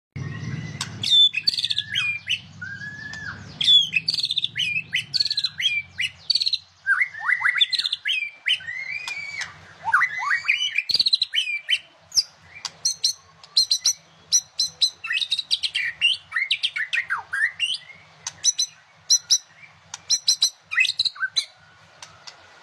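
White-rumped shama singing a long, varied song of loud whistled phrases and sliding notes, turning to quick runs of sharp, clicking notes about halfway through.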